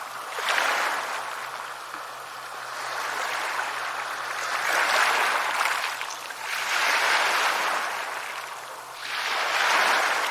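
Ocean waves washing onto a shore, with about four surges that swell and fade, the last one near the end.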